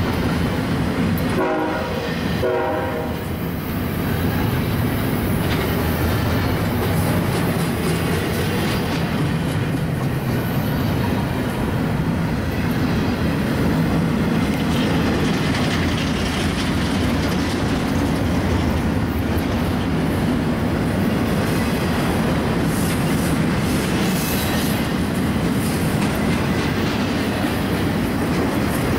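Empty double-stack intermodal well cars rolling past at speed, with a steady rumble and rattle of wheels on rail. About two seconds in, two short train-horn blasts sound.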